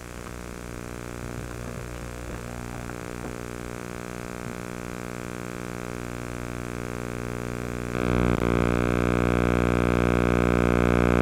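A steady hum with many even overtones, like an electric motor or electrical hum, growing slowly louder and then stepping up sharply about eight seconds in.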